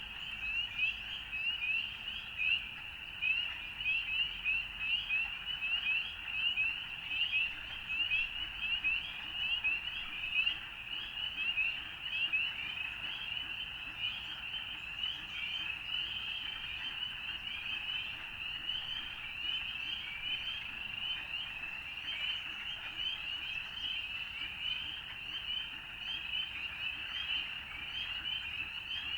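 Chorus of many frogs calling together, a dense continuous mass of short, high, rising notes overlapping one another.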